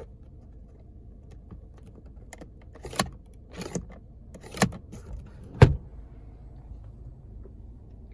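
A handful of sharp clicks from controls in the car's cabin being pressed and handled, the loudest about two thirds of the way through, over the low steady hum of a Toyota Corolla idling.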